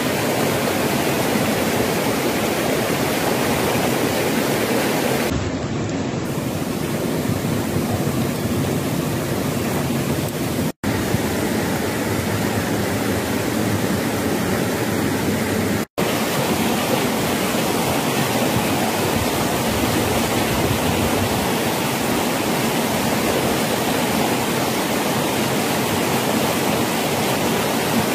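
Rushing water making a steady, loud hiss, broken by two very brief drop-outs about 11 and 16 seconds in.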